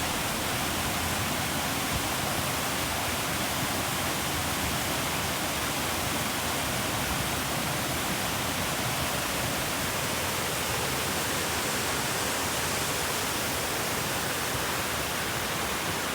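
Steady, even rushing of flowing water, like a stream or small waterfall.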